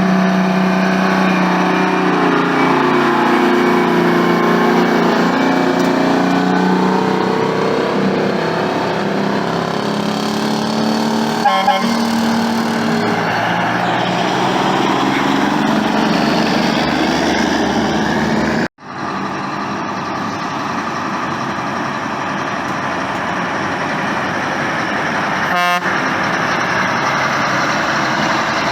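Big trucks going by with air horns sounding; the horn tones sink in pitch as a truck passes. About two-thirds of the way through, the sound cuts out for an instant, and after that only a steady engine and road rumble is left.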